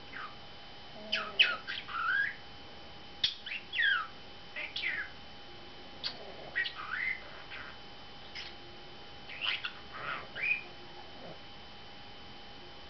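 Pet budgerigar chattering in short clusters of quick, high, sweeping chirps, squawks and whistles, with pauses between them.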